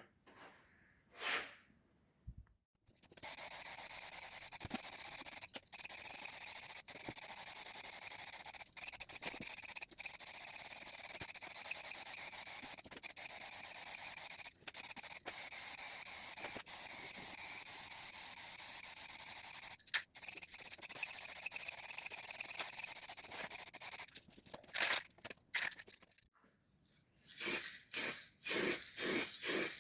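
Paint being sprayed onto the model locomotive body: a steady hiss with a few brief breaks, then a run of short hissing bursts near the end.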